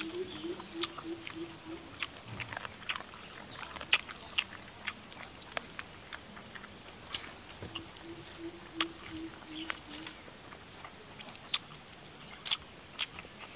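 Close mouth sounds of eating with the hands: repeated sharp chewing and lip-smacking clicks. Under them runs a steady high insect drone, and twice a low, rapidly pulsed animal call, at the start and again about eight seconds in.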